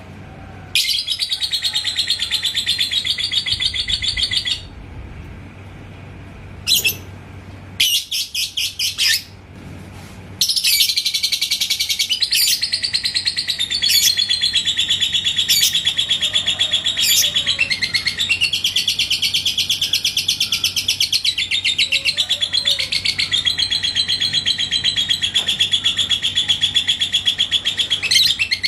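Lovebird giving its long, rapid chattering trill, the 'ngekek' song. A first run lasts about four seconds, two short bursts follow, and from about ten seconds in the trill runs on without a break.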